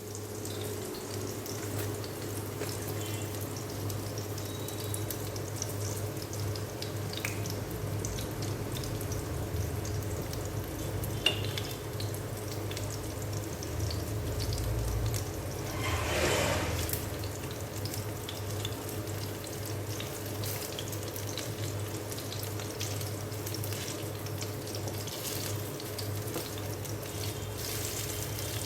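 Marinated chicken frying in hot oil in a pan: a steady sizzle with scattered crackles, over a low steady hum.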